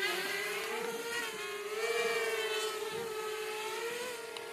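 Radio-controlled model airplane's motor and propeller buzzing in flight, a steady high hum whose pitch wavers slightly up and down.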